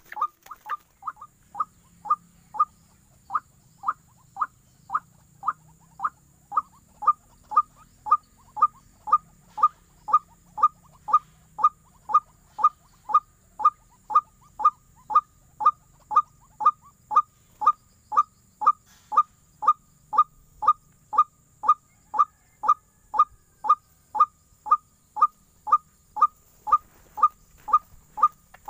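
White-breasted waterhen (ruak-ruak) calls: a short, falling call note repeated very evenly, about one and a half times a second, with a faint steady high whine underneath.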